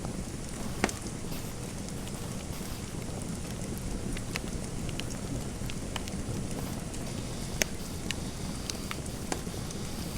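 Fireplace fire crackling: a steady low rumble of burning with irregular sharp pops and snaps, the loudest about a second in and again near eight seconds.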